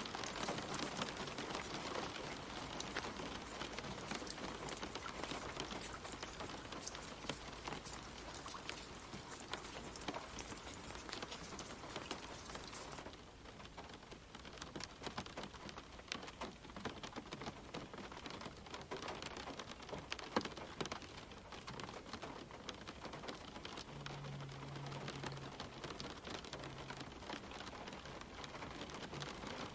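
Gentle rain falling on leaves and the ground: a steady patter of many separate drops. About halfway through, the rain turns slightly quieter and less hissy.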